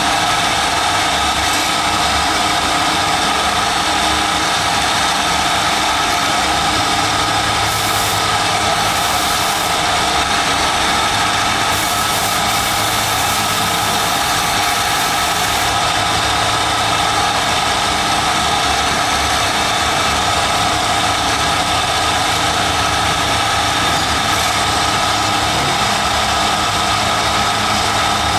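Steady mechanical drone of factory machinery, running without change, with several steady tones over a constant noise.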